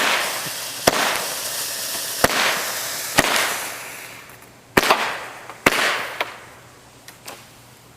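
Consumer firework going off: about eight sharp cracks at uneven intervals over a spraying hiss that dies away about halfway through.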